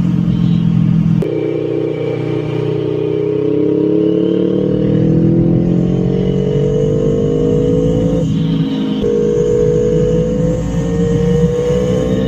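Honda Rebel 500's parallel-twin engine and exhaust under acceleration, the pitch rising steadily as it pulls through a gear, with a gear change about eight seconds in before the pitch climbs again.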